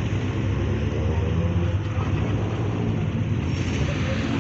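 Car engines running as cars drive slowly past in a line, a steady low engine hum.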